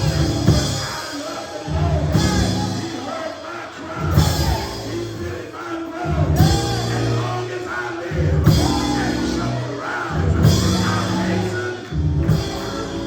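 Church music with a heavy bass line and singing, the bass moving to a new note about every two seconds.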